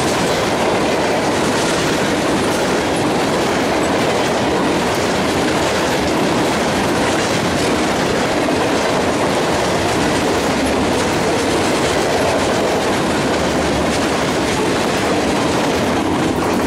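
Freight cars rolling past close by: a steady, loud rumble and rattle of steel wheels on the rails, with faint clicks scattered through it.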